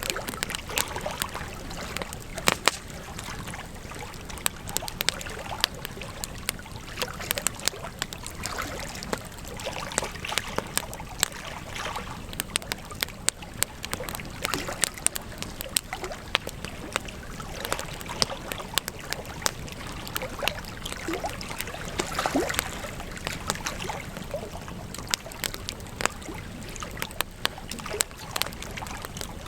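Wood campfire crackling: frequent irregular pops and snaps over a steady low hiss.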